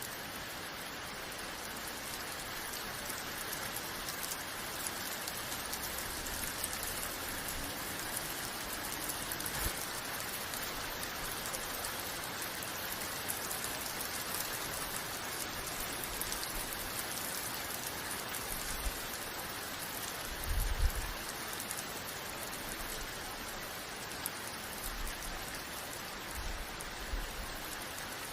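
Steady rain falling, an even hiss of drops on surfaces. A brief low rumble stands out about two-thirds through, with a couple of fainter low thuds near the end.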